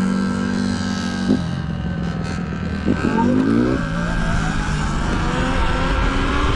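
Motorcycle engine running, revving up briefly about three seconds in.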